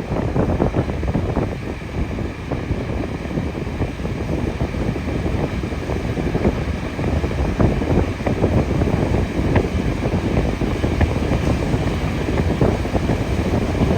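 Steady running noise of a moving train, a continuous rumble with dense, irregular small knocks and rattles over it.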